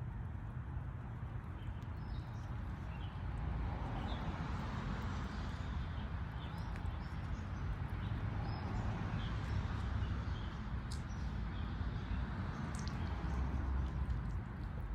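Outdoor ambience: a steady low rumble and hiss, with scattered faint short high chirps throughout.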